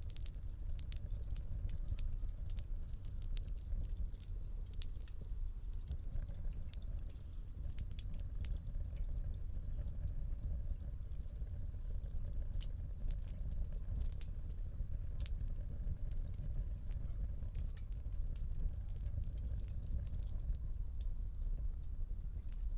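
Wood fire in a fireplace crackling, with many small irregular pops and snaps over the steady low rumble of the flames.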